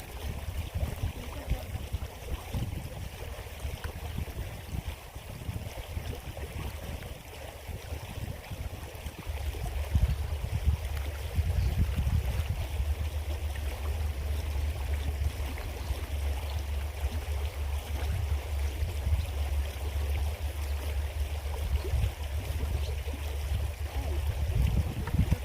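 Small creek's running water, a steady rushing flow. From about ten seconds in, a deep low rumble joins it.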